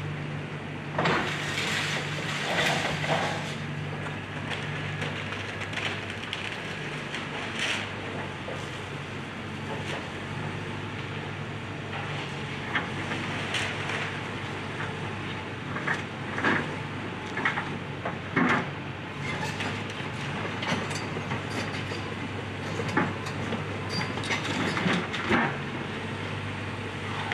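Excavator's diesel engine running steadily, with irregular cracks, clanks and scrapes of demolition debris breaking and shifting, the loudest cluster about a second in.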